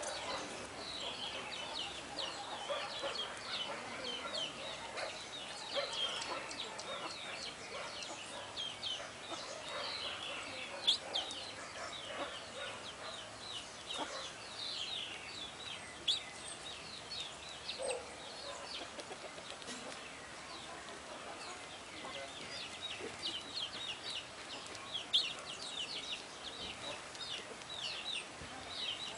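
Small songbirds chirping, many short high notes that sweep downward, overlapping one another throughout.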